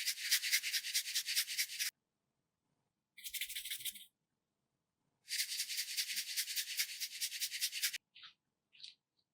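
Quick, scratchy rubbing strokes in three bursts, the last and longest nearly three seconds, followed by a few short faint scratches.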